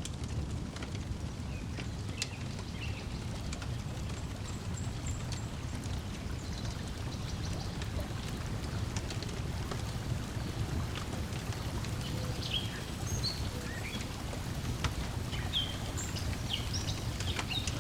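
Layered lakeside ambience: a steady low wash of water, scattered crackles and pops from a wood fire, and short bird chirps, more of them in the second half.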